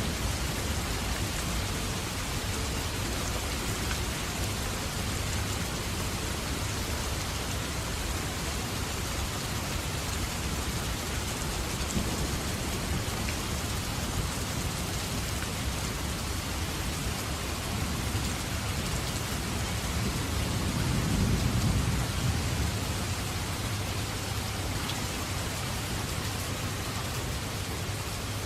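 Steady heavy rain falling on surfaces, an even hiss, with a low rumble of distant thunder swelling about two thirds of the way through.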